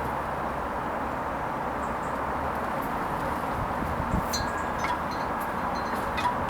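Hoover Vision HVP16 washing machine running a Silks 30 wash, a steady even wash noise with a faint steady hum. A few faint short high clicks come about four to six seconds in.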